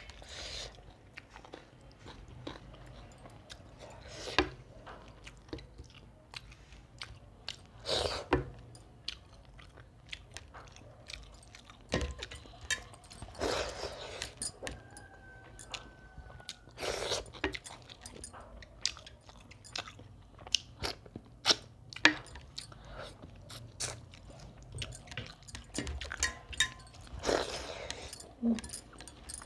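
Close-miked chewing and mouth noises of a person eating rice and fish curry by hand, with many irregular short wet smacks and clicks.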